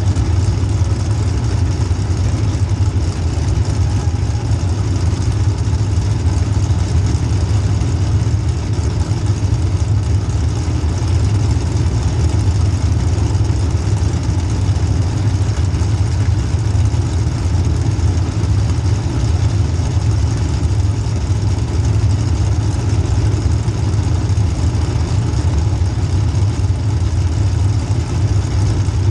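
Small-block Chevy V8 in a demolition derby car running steadily at an even, low engine note, with no clear revving or hits.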